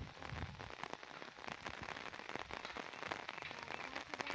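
Light, gentle rain falling, heard as a dense, steady run of many small, sharp drop hits close by.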